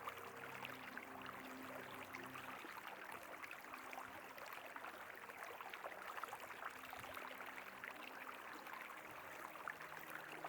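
River water flowing, a faint steady rush, with a weak low hum that fades out a few seconds in and comes back briefly later.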